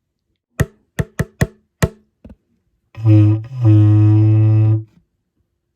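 Five quick sharp knocks, then a low buzzing horn tone blown through a cardboard wrapping-paper tube: a short blast, then a longer one held for about a second.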